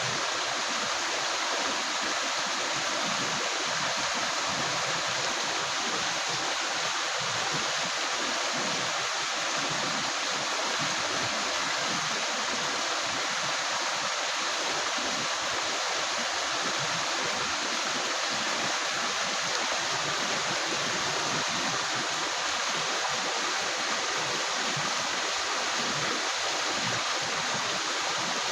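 Shallow river water flowing and gurgling over rocks, a steady rushing wash with fine bubbling texture.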